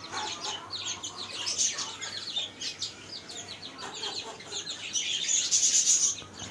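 Aseel chicks, a little over 20 days old, peeping constantly in a group: many short, high calls overlapping, busiest about five seconds in.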